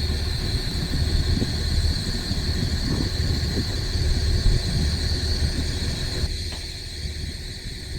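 Steady low rumble with a constant high hiss above it. The mid and upper part of the sound drops away suddenly about six seconds in.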